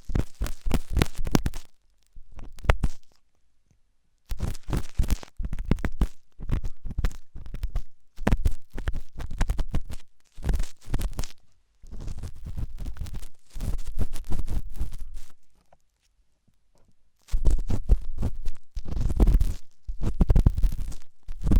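Ear picking for ASMR: an ear-cleaning tool scratching and scraping hard inside an ear right at the microphone, in runs of rapid strokes with deep, muffled rumbling. There are short pauses about three seconds in and again near the end.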